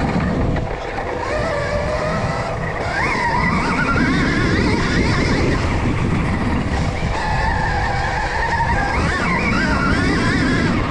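Stark Varg electric motocross bike being ridden hard on a dirt track: its motor whine rises and falls again and again with the throttle, over a steady rush of noise.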